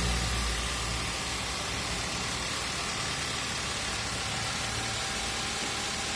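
Car engine idling steadily, with a broad even hiss over it.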